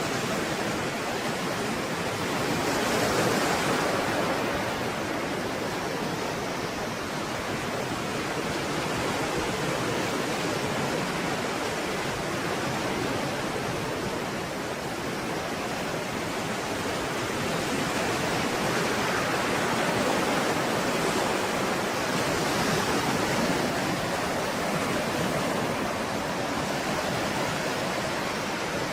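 Stormy sea waves breaking in a continuous wash of surf, swelling a little louder about three seconds in and again around twenty seconds in.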